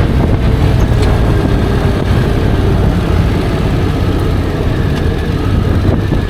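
Honda X-ADV 750's parallel-twin engine running steadily, with road noise.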